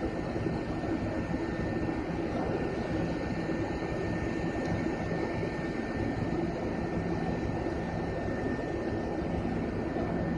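Heavy machinery running with a steady, unchanging drone: a low engine hum under a faint high whine, typical of the diesel power plant of a floating crane working a heavy lift.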